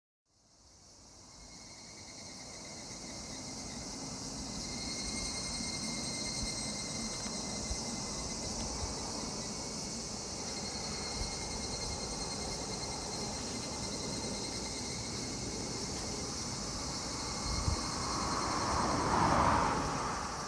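Steady chorus of insects chirping in high, even tones over a low background rumble. Near the end a louder sound swells and fades, with a short knock just before it.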